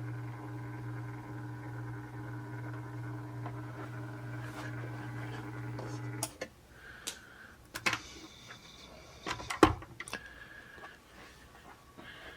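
A steady low electrical hum that stops abruptly about six seconds in. It is followed by a few sharp clicks and knocks of a small plastic model being handled, with one louder knock near the end.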